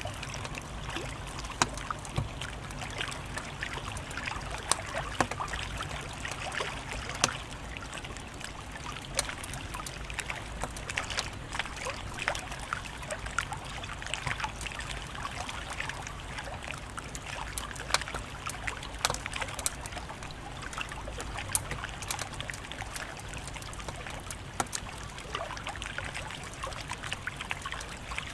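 Wood fire crackling: irregular sharp pops and snaps over a steady hiss and low rumble of flames.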